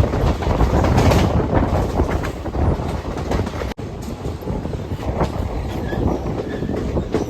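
Express passenger train running on the track, its wheels clattering over the rail joints under a steady rumble, cut off for an instant about halfway through.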